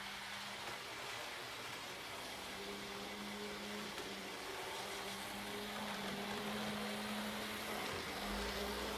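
Model train running on the layout: a steady electric-motor hum that swells and fades over a background hiss, with a low rumble joining near the end.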